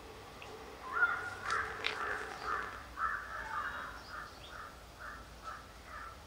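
A bird giving a long run of short repeated calls, about two a second, starting about a second in and growing fainter toward the end.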